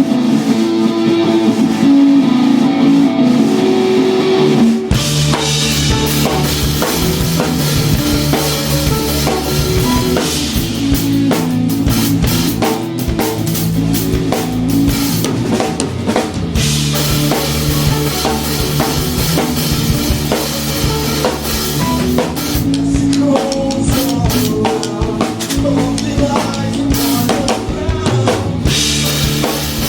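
Rock band playing live with no vocals. For about the first five seconds only guitar is heard; then the drum kit comes in with bass drum and snare hits, and the full band plays on.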